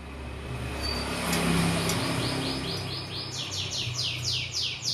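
Lovebird chirping: a rapid run of short, falling chirps, about five a second, starting about two seconds in and growing louder. A brief noisy swell comes just before it, and a low steady hum runs underneath.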